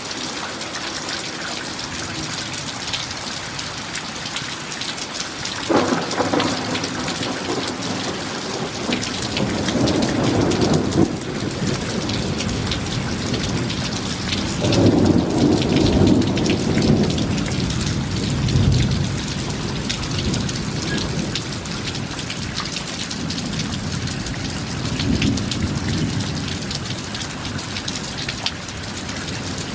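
Thunderstorm: steady heavy rain with thunder, a sudden crack about six seconds in followed by several rolling rumbles through the middle and a weaker one near the end.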